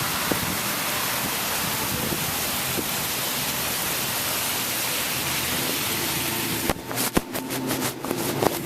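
Heavy thunderstorm rain pouring in a steady hiss. Near the end a run of sharp clicks and brief breaks cuts through it.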